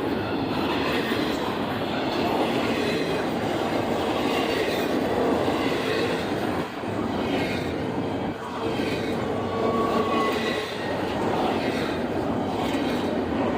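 A train passing close by: steady rumble and clatter of wheels on rails, with a few faint, brief squealing tones from the wheels.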